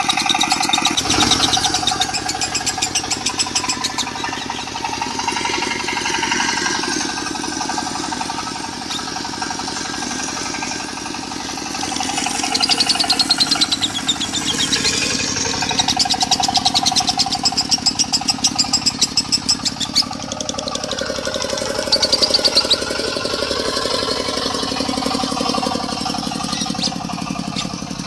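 Lovebird singing its long, rapid chattering trill (the "konslet" song) in several runs of a few seconds each, over a diesel engine running steadily.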